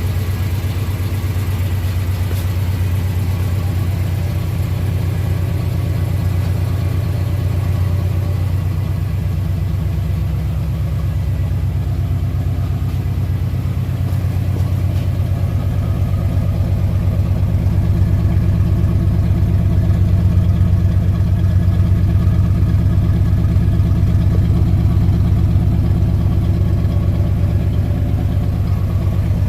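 1968 Oldsmobile 442's 400 cubic-inch V8 running at a steady idle after a cold start, with an even low pulsing exhaust note that grows a little louder about halfway through. The owner calls the engine a little tired.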